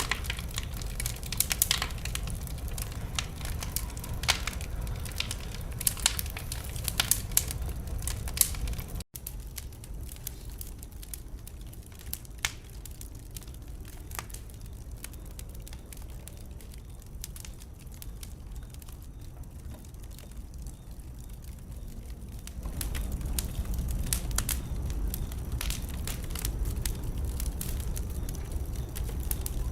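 Wood fire in a fireplace crackling and popping over a low, steady rumble of flame. The pops thin out and grow quieter after a brief break about nine seconds in, then pick up again and get louder over the last several seconds.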